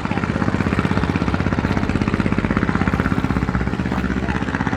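A small river boat's engine running steadily with a fast, even pulse.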